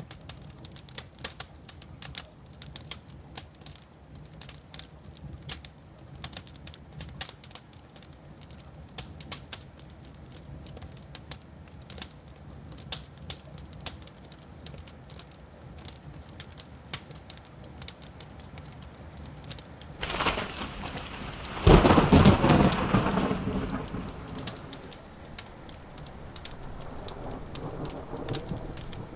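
Wood fire crackling in a fireplace with steady small pops; about twenty seconds in, a thunderclap builds, breaks with a sharp crack and then rumbles, fading away over several seconds.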